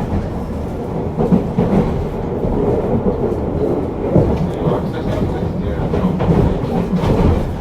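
Running sound inside a Tobu 50050 series electric train car: a steady rumble of wheels on the track, with irregular short knocks as the wheels pass over rail joints.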